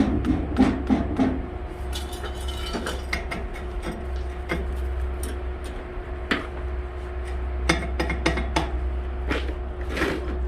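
Irregular clinks, taps and knocks of steel parts being handled and struck while a stainless-steel boiler water tank is fitted into a wood stove, over a steady low hum.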